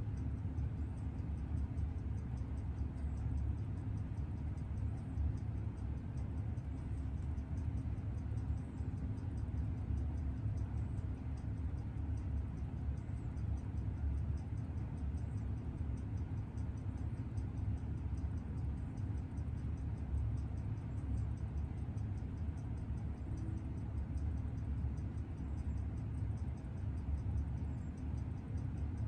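Freshly serviced Seiko 6138 automatic chronograph movement ticking rapidly and evenly as it runs in, over a louder steady low hum.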